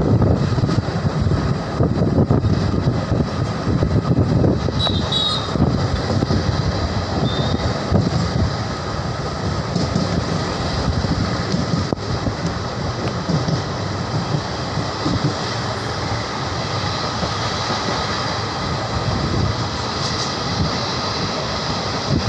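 Passenger train running, heard from inside a carriage at the window: a steady rumble of wheels on the rails.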